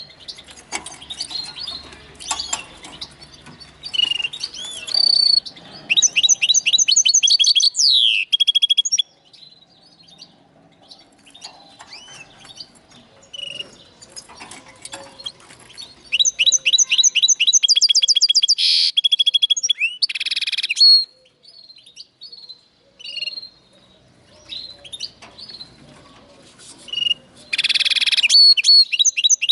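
Linnet × canary hybrid (a mule finch) singing: loud, fast trills of evenly repeated high notes come three times, with quieter twitters and short pauses between them.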